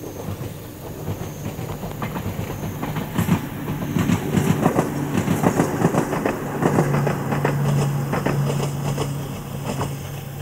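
Ohmi Railway electric train set 901F running along the line, its wheels clicking rhythmically over rail joints and growing louder toward the middle. A steady low hum comes in about two-thirds of the way through.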